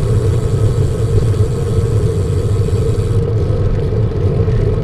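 Wind rushing over the microphone of a camera on a moving bicycle, a steady low rumble.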